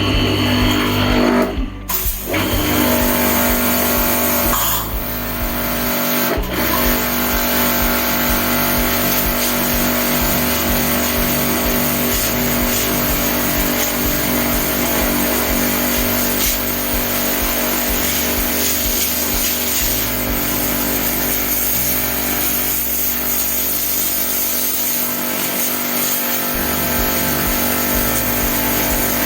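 Aimex D7 electric pressure washer running and spraying water in a steady hiss over its motor hum, cutting out briefly about two seconds in and again around six seconds.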